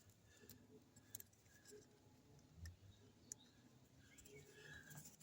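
Near silence, with a few faint, scattered clicks and taps of small parts being handled.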